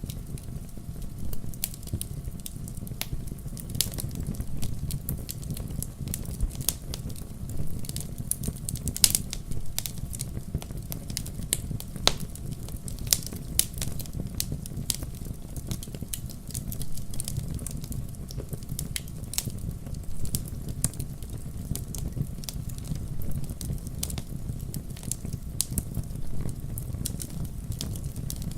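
Wood fire in a fireplace: burning logs crackling, with frequent irregular sharp pops and snaps over a steady low rush of the flames.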